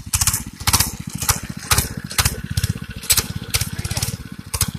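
Mini bike's small single-cylinder engine running, with a steady rapid beat and a sharp crackle about twice a second.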